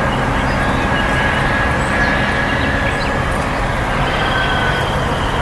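Steady, loud rumbling background noise like road or rail traffic, with a thin steady whistling tone above it and a few faint high chirps.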